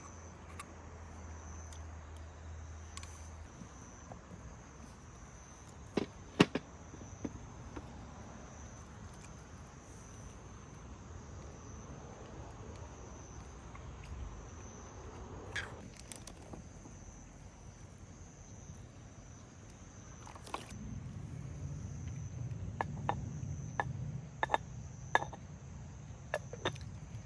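Crickets chirping in a steady, evenly pulsing high trill, with scattered sharp clicks and knocks, and a run of them over a low rumble in the last several seconds.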